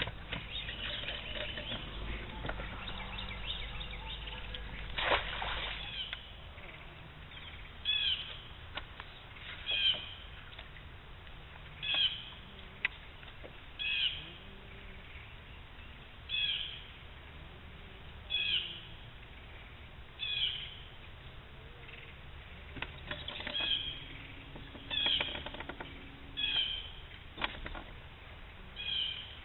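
A bird calling over and over, a short chirpy call repeated roughly every two seconds from about eight seconds in. Before that, a low steady hum stops about six seconds in, with a single knock shortly before it stops.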